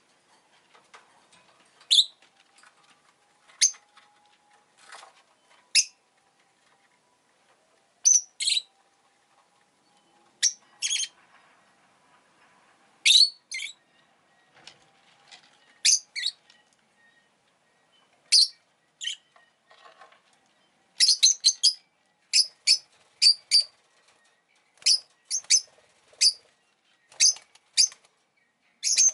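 Rosy-faced lovebird giving short, sharp, high chirps one or two at a time with gaps between, the calls coming faster in the last third.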